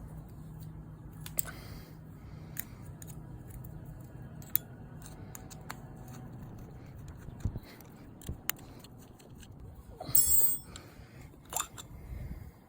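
Hand tools and small metal carburettor parts being handled on a 125cc four-stroke pit bike: scattered sharp clicks and light taps, with a brief metallic clinking jingle about ten seconds in, over a low steady hum.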